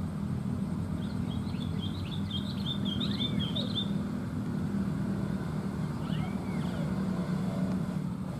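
Birds calling in a swamp: a short rising-and-falling whistle repeated about every three seconds, and a fast high chattering trill from about one to four seconds in, over a steady low hum.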